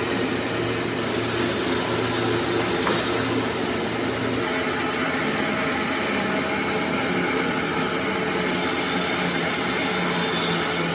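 An electric power tool running steadily with a loud whir, its hum shifting to a higher pitch about four and a half seconds in.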